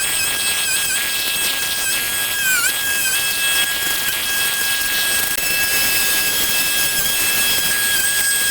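A machine running steadily with a loud hiss and a high-pitched whine; the whine dips in pitch briefly a few times in the first three seconds, as if under load.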